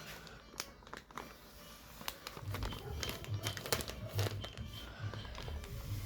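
Crinkling plastic packaging and light handling clicks as a Surf detergent package is handled at a washing machine's dispenser drawer.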